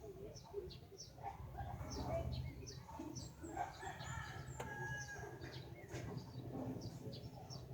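Birds calling: many short, high chirps repeating quickly, with some lower clucking calls mixed in, over a steady low hum.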